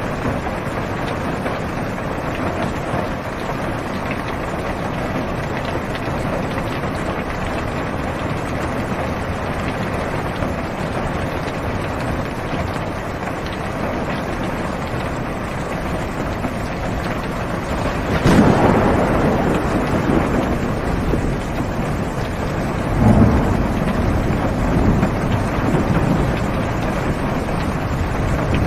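Heavy rain drumming steadily on a car's roof and windows, heard from inside the car. A sharp thunderclap breaks out about two-thirds of the way through and fades into a low rumble, and a second rumble of thunder rolls in near the end.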